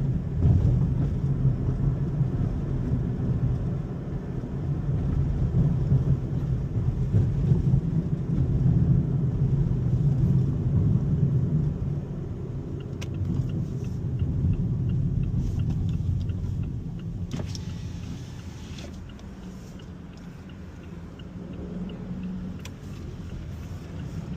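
Car driving, heard from inside the cabin: a steady low road and engine rumble that eases in the second half. A faint regular ticking, about two a second, runs through the later part, with a brief hiss near the three-quarter mark.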